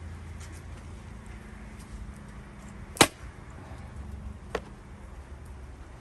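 A Gränsfors Bruk axe strikes a cherry-wood round once, sharply, about halfway through, followed by a lighter wooden knock about a second and a half later.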